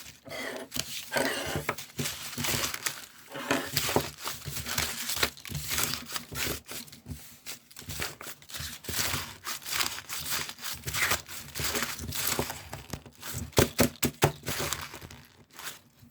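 Dense, irregular crinkling and rustling of material being handled and crumpled close by, stopping abruptly at the end.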